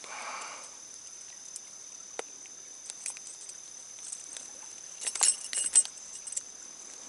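Crickets chirring steadily in a high, thin, unbroken drone, with scattered small clicks and a short cluster of sharp clicks and rattles about five seconds in.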